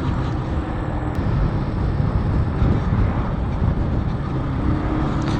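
Keeway Cafe Racer 152 single-cylinder engine running steadily while the motorcycle is ridden, mixed with wind rushing over the microphone.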